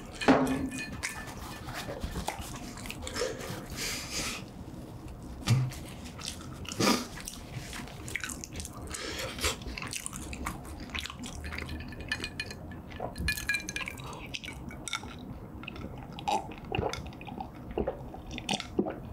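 Close-miked wet chewing of a mouthful of food, with many small sticky mouth clicks and smacks. Near the end there is a drink from a glass.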